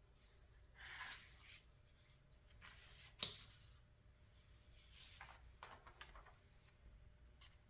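Catalog pages being turned by hand: faint paper rustles with a sharp page snap about three seconds in, then softer rustling and a small flick near the end.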